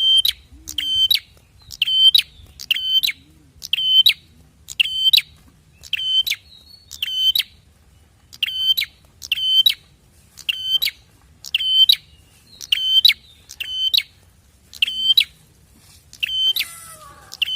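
Bar-winged prinia (prenjak) calling: sharp, high, buzzy notes repeated in a steady rhythm about once a second. A brief rougher sound comes near the end.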